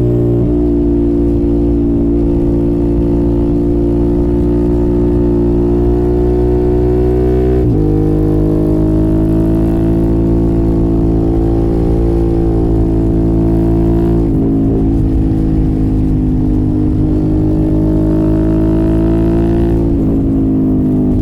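Suzuki motorcycle engine with an aftermarket exhaust running under way. The revs hold fairly steady, and the engine note changes abruptly about 8 s in, again about 14 s in, and near the end.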